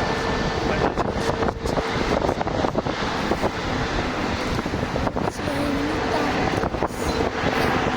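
Jet airliner engines running as a steady rumbling roar, with a faint steady tone through it and wind buffeting the microphone.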